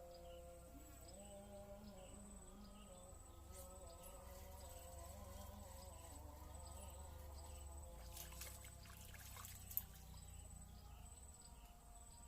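Faint insect chorus: a steady high, thin buzz with soft chirps repeating about once a second. A short patch of crackling clicks comes near the end, with one sharp click.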